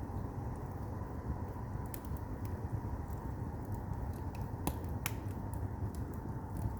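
Firewood burning in an agungi, a traditional Korean firebox. There is a steady low rumble with scattered sharp crackles and pops; the loudest come about two seconds in and a little under five seconds in.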